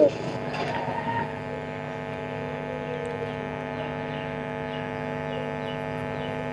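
Steady hum made of several fixed tones, much quieter than the coos on either side, with the last of a dove's falling coo dying away right at the start.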